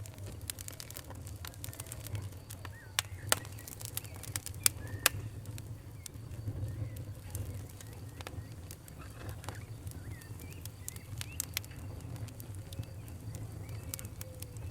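Campfire burning with a steady low rumble and irregular sharp crackles and pops, a few louder pops a few seconds in. Faint bird chirps in the background.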